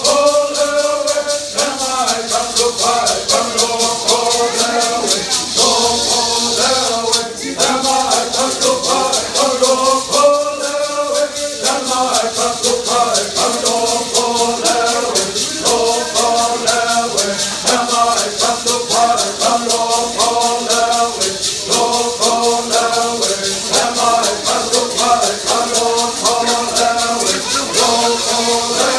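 Singing with a shaker keeping a steady, fast rhythm underneath.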